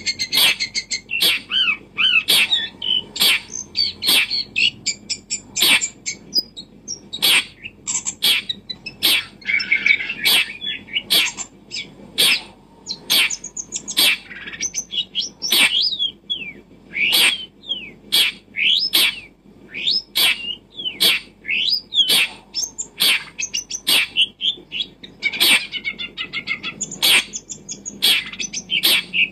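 Small birds chirping and twittering in quick, high, gliding notes, with frequent sharp clicks about one to two a second.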